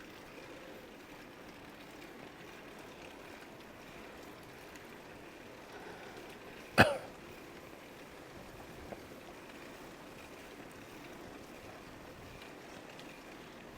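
Steady wind and riding noise while cycling, broken once a little past halfway by a single short, loud cough.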